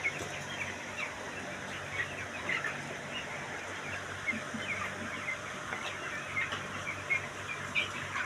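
A flock of chickens calling, with many short, high calls overlapping throughout over a steady low hum.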